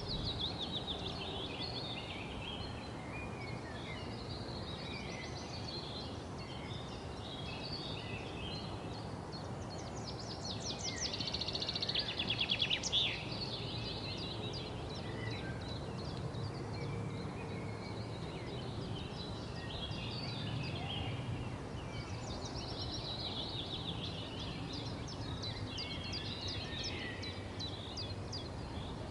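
Several songbirds chirping and singing in overlapping short phrases, with a louder, fast trill of rapidly repeated notes about ten to thirteen seconds in, over a steady low background rumble.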